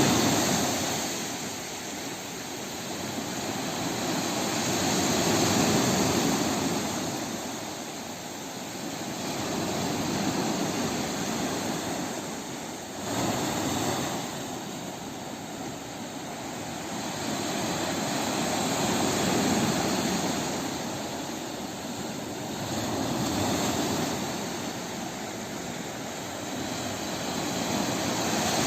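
Sea waves rolling in and falling back, the surf noise swelling every four to six seconds, with a sharper surge about thirteen seconds in.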